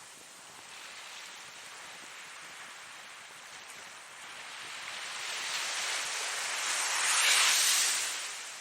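Ocean surf: a steady wash of water that builds from about halfway through into one wave breaking near the end, then fades.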